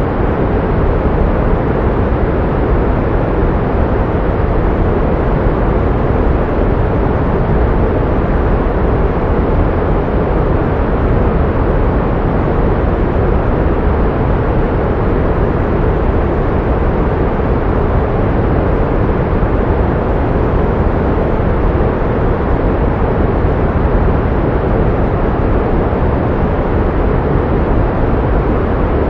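Steady pink noise: an even, featureless rushing hiss, fuller in the low and middle range and fading off in the highs, with no change throughout.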